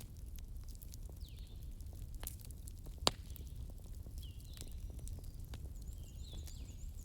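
Bonfire crackling: scattered sharp snaps over a steady low rumble of the flames, with one loud pop about three seconds in. Faint short chirps sound now and then in the background.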